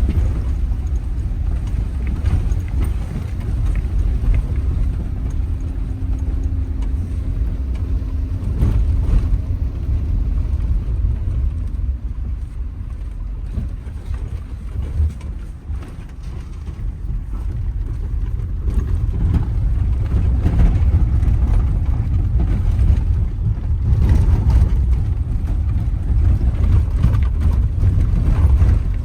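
Wind buffeting the microphone: a loud, steady low rumble that eases off around the middle and builds up again.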